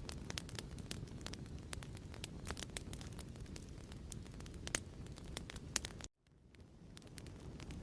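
Fireplace ambience: a wood fire crackling and popping over a steady low rumble. It cuts out abruptly about six seconds in and fades back up over the next second or so.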